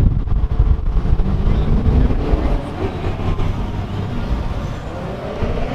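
Car engine running with a heavy low rumble, its pitch rising as it revs up about two seconds in and again near the end.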